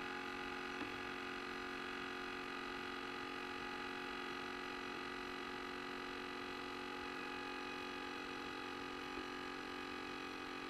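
Steady, even whine of a multirotor drone's motors and propellers, many held tones with no change in speed.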